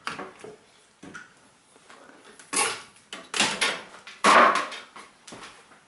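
Handling noise as multimeter test leads are swapped: a few short rattling knocks and scrapes, the loudest about four seconds in.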